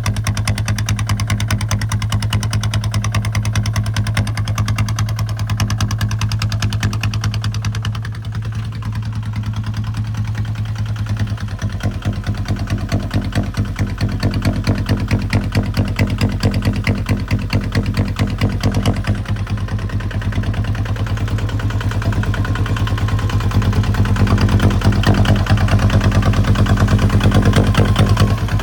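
Kubota ZT155 single-cylinder diesel engine running steadily with an even, rapid firing beat while plowing, a little quieter about eight seconds in and louder near the end.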